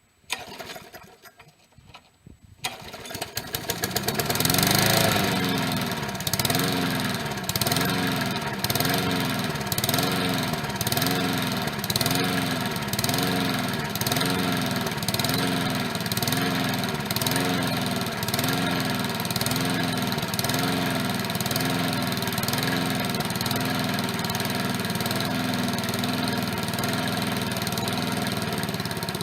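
Push mower's small engine starting from cold about three seconds in, then running with its speed rising and falling in a steady cycle, a little more than once a second.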